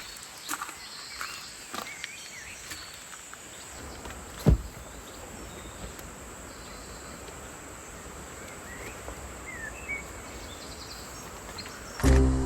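Quiet forest ambience: a steady hiss with scattered faint chirps and small ticks, broken once about four and a half seconds in by a single low thump. Music starts right at the end.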